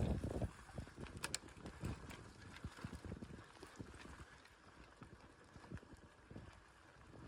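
Low rumble of wind on the microphone at the start, then irregular light knocks and clicks, with a sharp double click about a second in.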